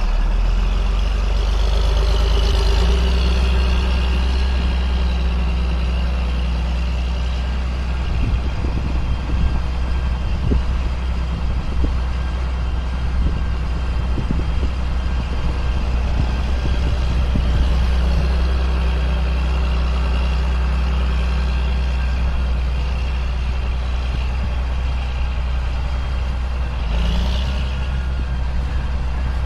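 2005 John Deere sprayer's engine running steadily under way, with scattered light knocks and rattles about a third of the way in.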